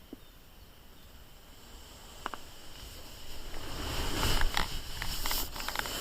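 Rustling and clicking handling noise that grows louder after about three seconds, over a faint steady high hum.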